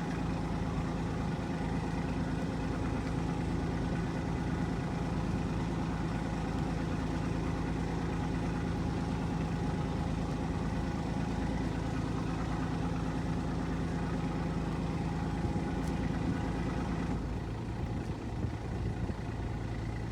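Sailboat's inboard engine running steadily as the boat motors in toward its slip, dropping to a lower, slower note about three seconds before the end as it is throttled back.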